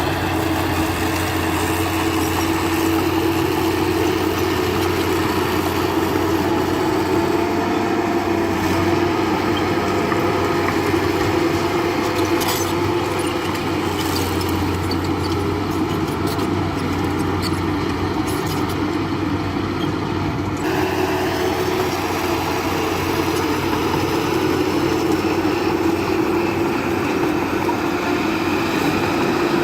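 Diesel engine of heavy earthmoving machinery running steadily, with a few faint clicks near the middle. The sound changes abruptly about two-thirds of the way through.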